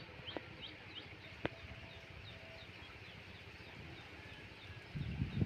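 Birds chirping over and over in short, high calls, with a couple of sharp clicks and a low bump near the end.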